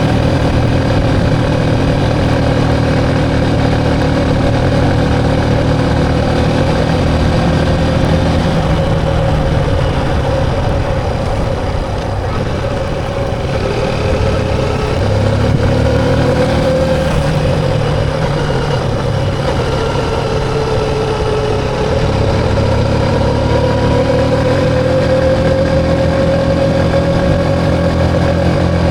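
Motorcycle engine running steadily on the move. Its pitch drops about two-thirds of the way through as it slows, then rises again as it picks up speed.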